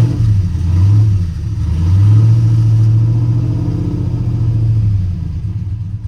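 Cammed GM 5.3 V8 in a pickup truck running open with the mufflers removed, soon after starting. It runs with an uneven, wavering idle at first, settles into a steady low drone, then sags and falls off near the end, not yet used to running without back pressure.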